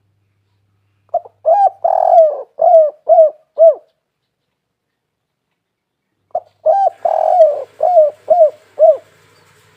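Spotted dove (tekukur) cooing: two phrases of about seven coos each, a few short notes, one longer note, then three short notes, the second phrase starting about five seconds after the first.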